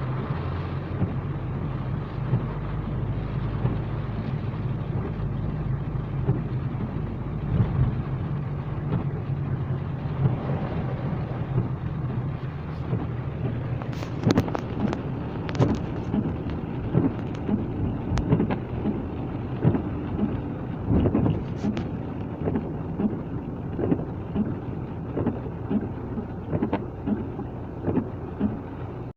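Rain falling over a steady low hum from a vehicle engine. From about halfway, scattered sharp taps join in, dozens of them.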